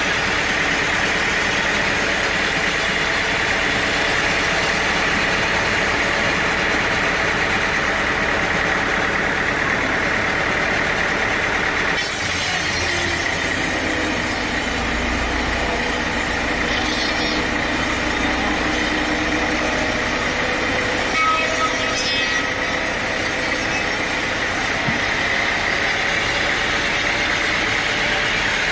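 Engine-driven sawmill running steadily. About twelve seconds in, the saw goes into the teak, adding a harsh hiss over the drone; the hiss stops about thirteen seconds later.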